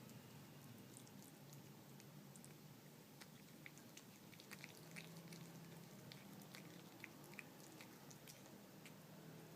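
A cat eating wet canned food: faint, irregular chewing and lip-smacking clicks.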